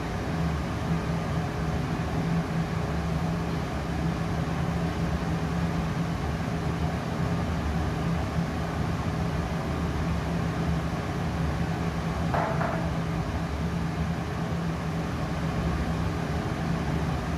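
Trotec Speedy 100 laser cutter running: a steady low hum with an even rush of air from its fans. A brief higher tone sounds once about twelve seconds in.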